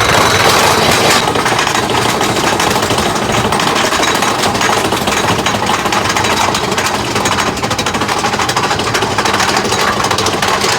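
Big Thunder Mountain Railroad mine-train roller coaster rattling along its track at speed, a loud continuous clatter.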